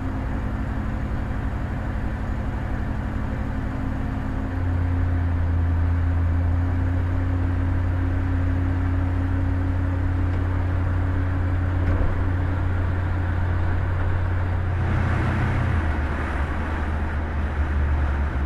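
Cabin sound of a 1962 Chevrolet Biscayne cruising at about 35–37 mph: the bored-over 350 V8's exhaust hum through Thrush turbo mufflers, a steady low drone over road noise, which now seems a little better than before the swap. The hum gets louder about four seconds in and drops lower in pitch near the end.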